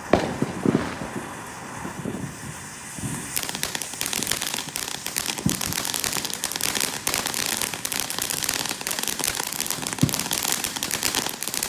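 Consumer fireworks going off at ground level: a few pops at the start, then from about three and a half seconds in a dense, rapid crackling of many small cracks.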